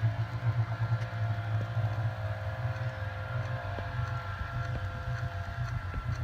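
Hunter C-18 ceiling fan running on its single-speed switch: a steady motor hum with a pulsing low drone and faint steady tones. The owner hears a slight tracking problem with one of the blades.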